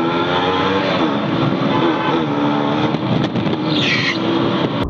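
TVS-Suzuki motorcycle engine running under throttle as the rider speeds up, its pitch rising and falling as the revs change.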